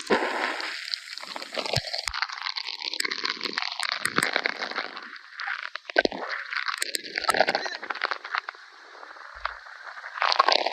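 Heavy rain pelting the microphone: a loud, irregular crackling hiss.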